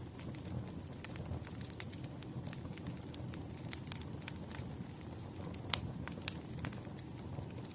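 Burning firewood crackling and popping over a low, steady rumble of flames, with irregular sharp snaps; the loudest pop comes a little under six seconds in.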